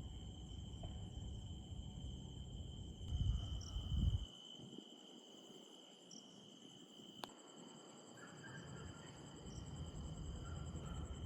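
Insects trilling in a steady, high, unbroken chorus. A low rumble underneath stops about four seconds in.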